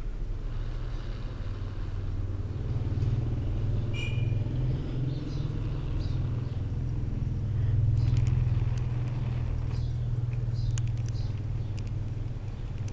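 A steady low rumble that swells about eight seconds in, with scattered sharp clicks in the second half.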